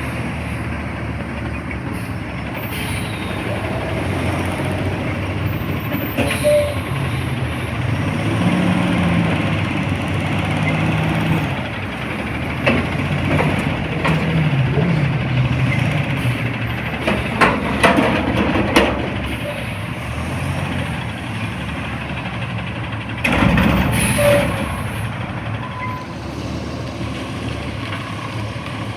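CNG front-loader garbage truck working, its engine revving up and falling back twice. A cluster of sharp metal knocks comes about two-thirds of the way through, and a louder burst of noise, like an air release, follows a few seconds later.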